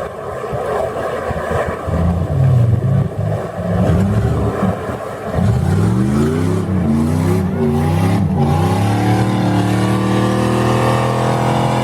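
Mud truck engine under hard throttle. A rough, choppy rumble gives way about halfway through to revs swinging quickly up and down, then holding at a steady high pitch.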